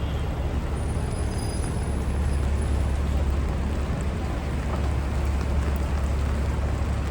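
Traffic on a rain-wet city avenue: a steady low engine rumble from passing vehicles under a constant hiss of tyres and rain, growing a little louder about two seconds in.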